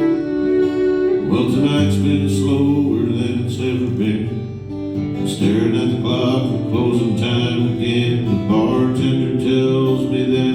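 Live country band playing an instrumental passage: a fiddle's held notes at the start give way, about a second in, to steady acoustic guitar strumming.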